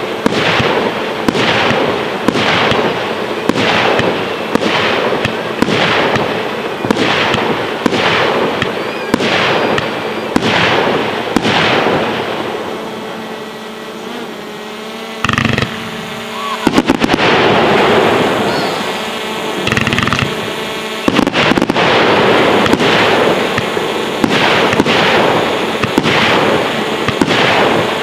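Firework display: a regular volley of shots, about one and a half a second, for the first ten seconds or so, then a quieter spell of crackling. After that comes a sudden loud bang and a dense barrage of bursts and crackle.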